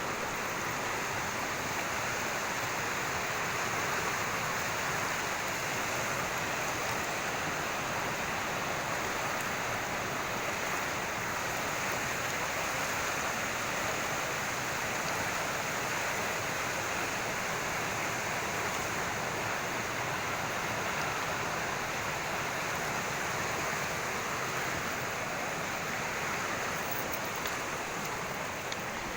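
Steady rushing of water, an even, unbroken noise.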